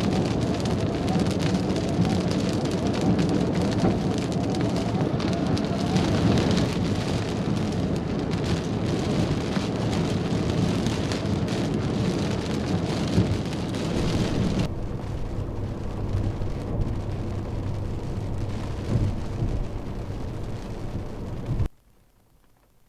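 Heavy thunderstorm rain hissing and pattering hard, with a low rumble of thunder and wind under it. About two-thirds of the way through the rain hiss drops away leaving the low rumble, and near the end the sound cuts off abruptly to near silence.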